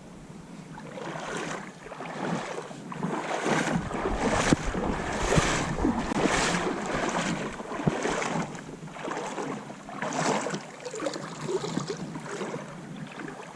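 Kayak paddle strokes: the blades dip and pull through the water, making a splashing swish about once a second.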